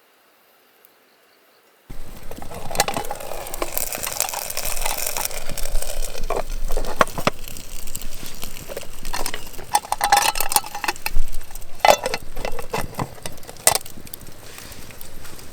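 About two seconds of near silence, then close-up handling sounds: irregular rustling with light clinks and clicks, with a few sharper taps near the middle and the end.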